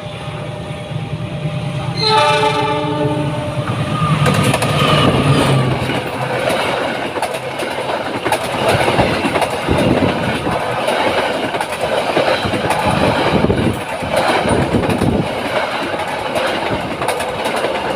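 Train horn sounds once about two seconds in, then a train passes close by, its wheels clattering rhythmically over the rail joints.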